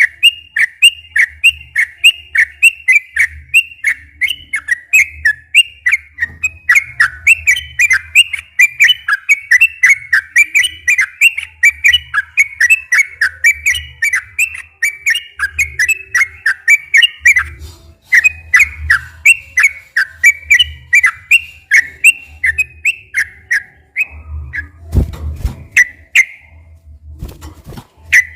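Yellow-vented bulbul (trucukan) singing a long, fast run of loud, bubbly whistled notes, about four a second, with a short break a little past halfway. The song thins out near the end, where two short bursts of low rumbling noise are heard.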